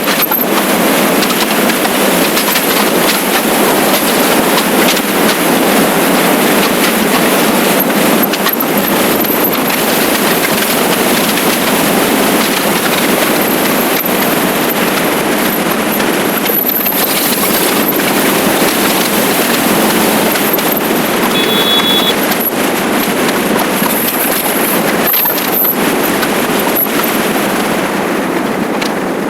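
Steady rush of wind and road noise from a motorcycle riding at speed, with a brief high tone about two-thirds of the way through.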